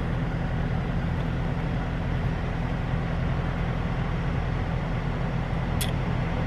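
Steady low hum of a car heard from inside the cabin, engine and road noise with no change in pitch. One short sharp click about six seconds in.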